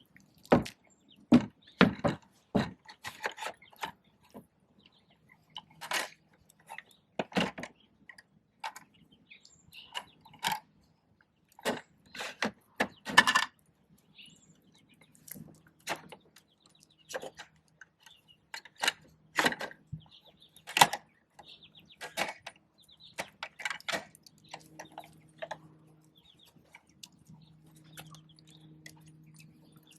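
Plastic parts of a Bruder toy garbage truck clicking and knocking as it is handled and played with, in irregular bursts of sharp taps. A faint steady low hum runs underneath from about five seconds in.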